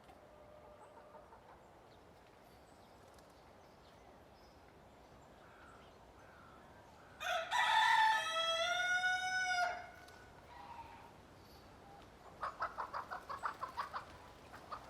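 A rooster crows once, one long call lasting about two and a half seconds, midway through. A few seconds later comes a quick run of about a dozen short clucks.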